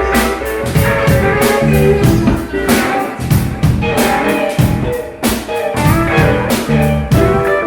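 Blues-rock band music: guitar playing over a drum kit with a steady beat.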